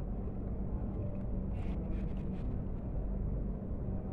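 Steady low room hum with a few faint soft clicks and smacks from a man chewing a mouthful of rice and fish.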